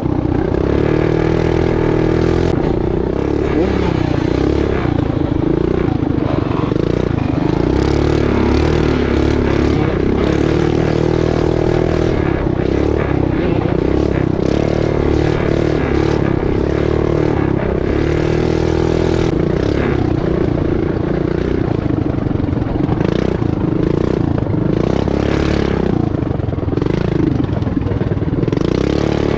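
Mini bike's small single-cylinder four-stroke engine running under hard throttle, its pitch rising and falling again and again as the rider accelerates and backs off on a rough dirt track. The bike rattles and knocks over the bumps throughout.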